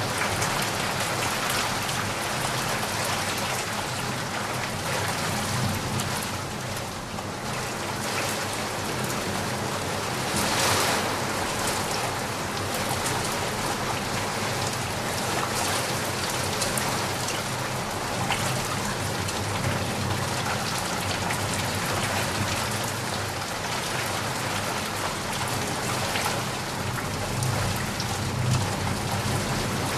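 Heavy rain falling steadily as a dense, even hiss, with a brief louder swell about ten seconds in.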